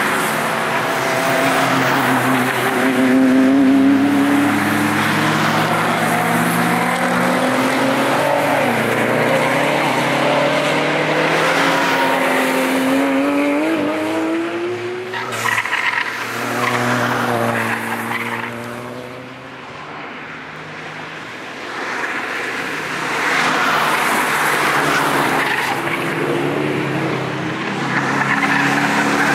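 Cars passing at speed on the Nürburgring Nordschleife, their engine notes rising and falling as they accelerate and go by, over tyre and road noise. The sound eases off about two-thirds of the way through, then more cars come past.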